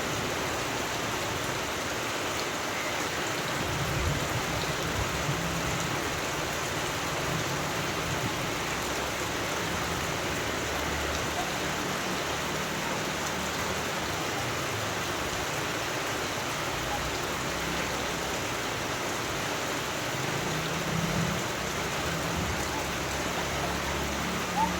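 Steady rain falling, an even hiss, with low rumbles now and then.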